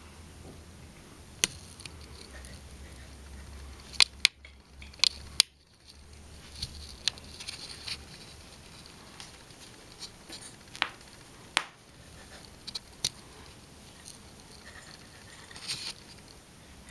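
Scattered sharp clicks and light scratching at irregular intervals, several loud ones close together about four to five seconds in, over a low steady hum: small animals scrabbling about on a hard surface.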